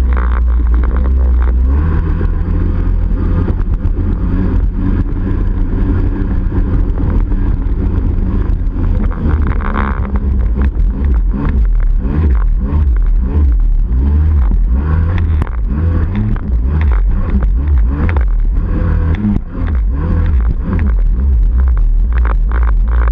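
Yamaha 701 two-stroke twin in a Waveblaster, home-ported with a Riva head, pipe and waterbox, running under load as the engine speed rises and falls, over a heavy rumble and many short knocks.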